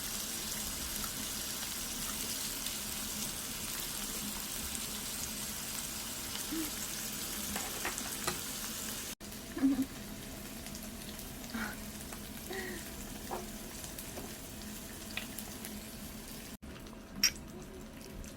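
Thin-sliced beef brisket sizzling in an electric multicooker pan, a steady high hiss. About nine seconds in the sizzle drops away to a quieter background with scattered light taps and clinks, and a single sharp click comes near the end.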